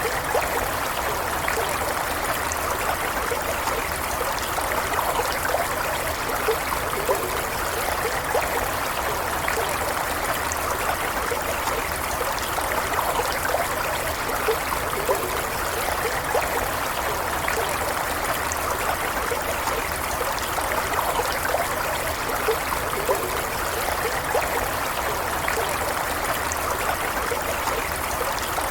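Running stream water, a steady rush with small trickling splashes.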